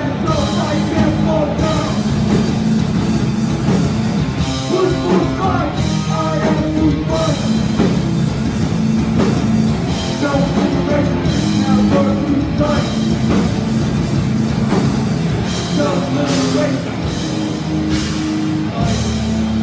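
Live hardcore punk band playing loud, with distorted guitars, bass and drum kit under shouted vocals.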